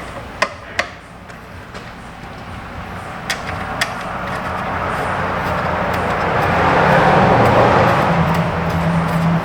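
A few light clicks, then a steady machine or engine running noise with a low hum that gradually grows louder over several seconds.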